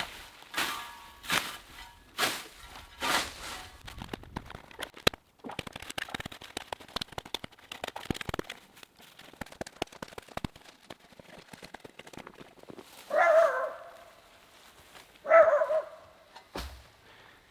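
A series of short scrapes or knocks, about one a second, then a steady crackling patter. A dog barks twice near the end, the loudest sounds here, and starts a third bark right at the close.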